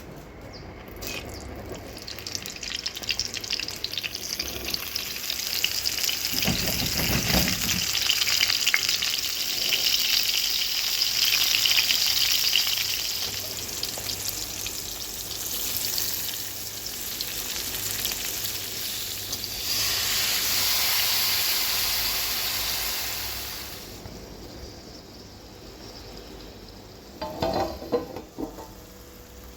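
Vegetables frying in hot oil in a pan, sizzling while being stirred and scraped. The sizzle dies down about three-quarters of the way through, and a few short knocks of a utensil against the pan follow near the end.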